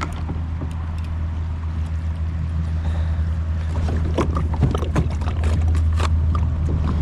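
Kayak moving on a fast river current: a steady low rumble of moving water, with scattered knocks and splashes that come thicker in the second half, as from paddle strokes and water slapping the hull.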